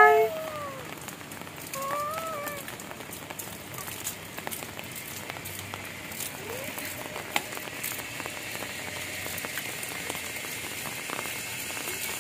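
Steady rain falling on hard surfaces, an even hiss dotted with small drop ticks. A young child's short vocal sound comes about two seconds in.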